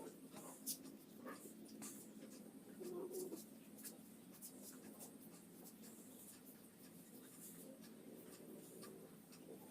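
Faint pencil strokes scratching on paper: short, irregular scrapes as a circle and gear are sketched, over a low steady room hum.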